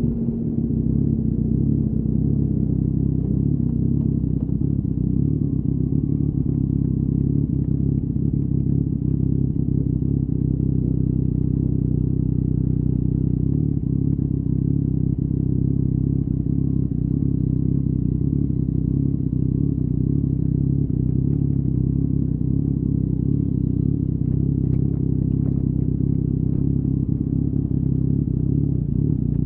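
A 2019 Yamaha MT-09's three-cylinder engine through an Akrapovic exhaust, running steadily at constant revs without revving up or down.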